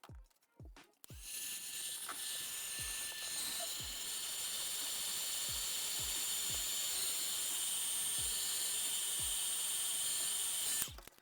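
A machine runs with a steady high hiss and faint whining tones. It starts about a second in and cuts off suddenly near the end, over the thumping beat of background music.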